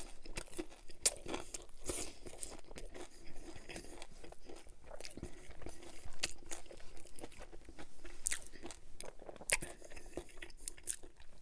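Close-miked chewing of a mouthful of Domino's pan pizza, with many small crisp crunches from the crust.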